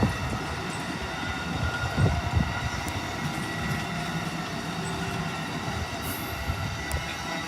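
Amtrak passenger train's cars rolling past, a steady rumble of steel wheels on the rails with a couple of heavier clacks about two seconds in.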